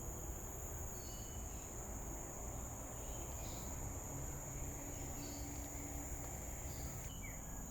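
Steady high-pitched drone of forest insects, unbroken throughout, with a few faint short chirps over it.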